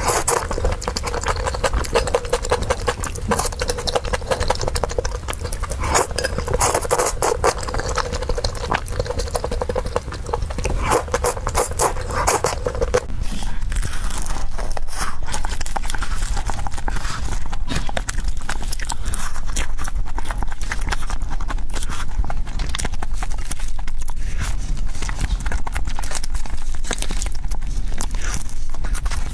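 Close-miked eating sounds: fast chewing with a dense run of wet mouth clicks and smacks.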